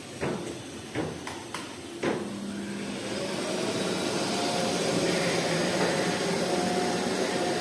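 A few sharp knocks, then a motor starts about two seconds in and runs steadily with a hum and hiss that grows slightly louder.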